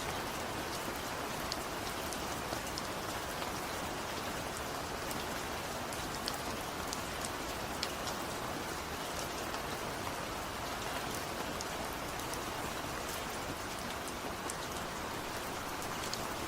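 Steady, gentle rain falling, a continuous hiss with many small, crisp drop ticks scattered irregularly through it.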